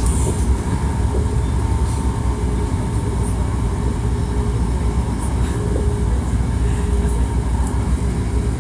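Hankyu 1300 series electric train running at a steady speed, heard from inside the car: a continuous low rumble of wheels on track with a faint steady whine and a few light clicks.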